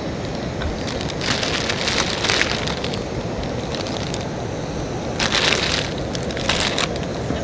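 Steady wind noise with a few short bursts of rustling crackle, one a little over a second in, another about five seconds in.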